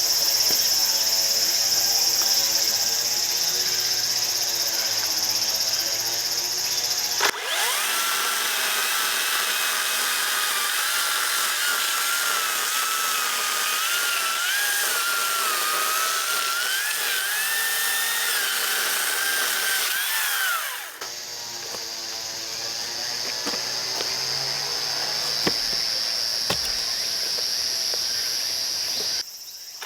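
Makita cordless chainsaw running and cutting wood, its electric motor giving a steady high whine whose pitch wavers under load. The sound changes abruptly about seven seconds in and again about twenty-one seconds in, then breaks off just before the end.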